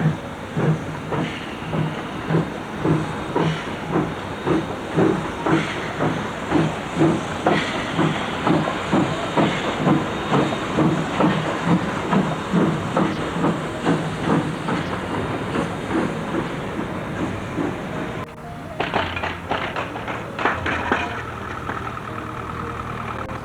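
Steam locomotive, the Swedish Class S 1928, working a train away: exhaust beats about twice a second, quickening as it gathers speed, over a hiss of steam, then fading. Near the end come a few irregular knocks and a short steady tone.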